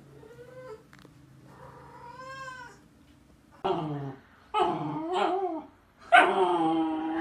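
A cat meowing and yowling five times in drawn-out calls that rise and fall in pitch. The first two are faint; the last three are much louder, and the final one is the longest.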